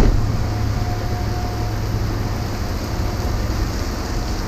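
Rain falling steadily, over a low steady hum.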